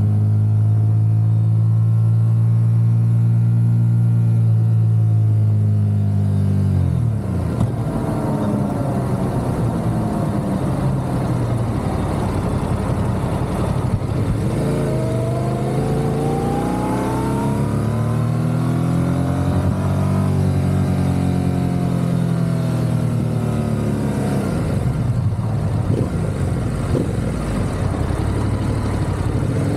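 Motorcycle engine running while riding. Its pitch holds steady for about six seconds, then drops and climbs back several times as the throttle is eased and opened, over steady road noise.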